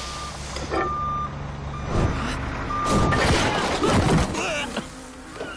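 A high electronic beep sounds on and off several times, like a reversing alarm, over a low steady rumble. Loud bursts of clattering noise come about two, three and four seconds in.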